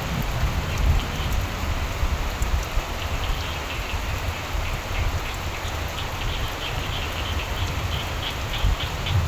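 Steady rain falling, with a low rumble beneath. Frogs call in short repeated pulses, growing denser in the second half.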